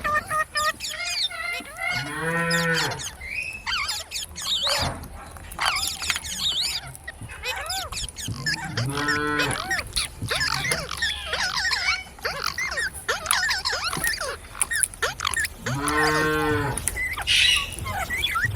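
A cow mooing three times, each moo a long call about a second long, spaced about seven seconds apart. Birds chirp and squeak throughout.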